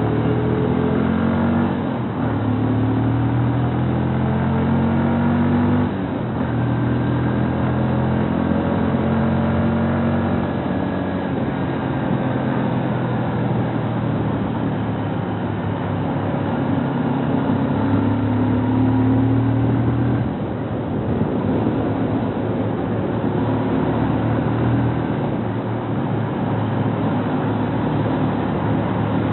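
Kawasaki Rouser NS125 FI motorcycle's single-cylinder 125 cc engine running under way. Its pitch climbs and drops back several times as the rider accelerates and shifts through the gears.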